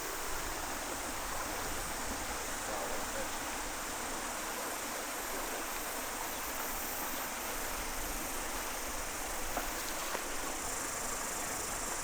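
Steady rush of a small mountain stream, with a constant high chirring of insects over it.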